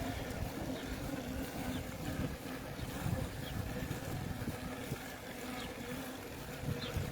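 A vehicle engine running at a steady pitch while travelling, with wind rumbling on the microphone.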